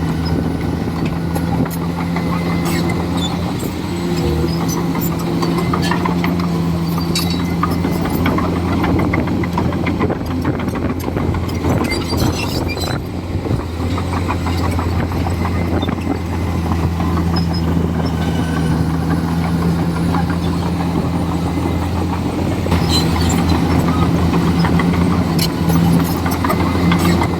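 Komatsu D41E crawler bulldozer's diesel engine running steadily, with scattered sharp clanks and knocks from the machine at work.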